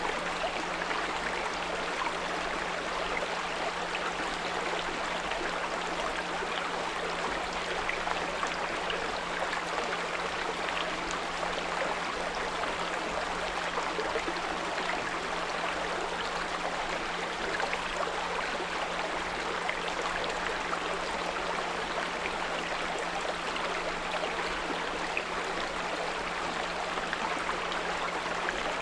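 A small brook babbling steadily over stones, with a constant low 174 Hz pure tone humming beneath the water.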